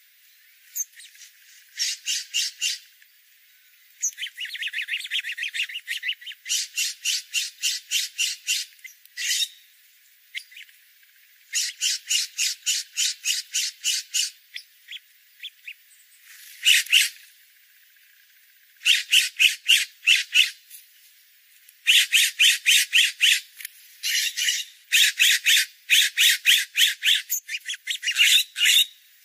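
A bird calling in quick runs of short, high notes, about eight a second, each run lasting one to three seconds with short pauses between.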